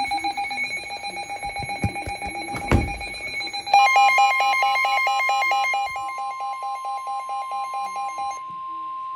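Weather-radio alert: rapid electronic beeping, then about four seconds in a steady high tone (the NOAA Weather Radio 1050 Hz warning alarm) starts under louder beeps at about four a second. The beeps stop near the end while the tone holds, signalling that a warning message is about to be broadcast. A single knock sounds a little before the tone starts.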